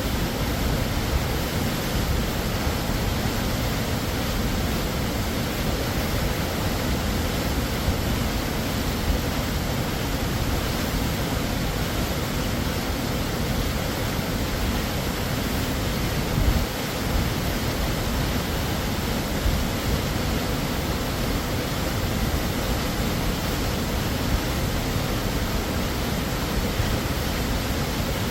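Waterfall: a steady, unbroken rush of falling water over rock, full from deep rumble to high hiss.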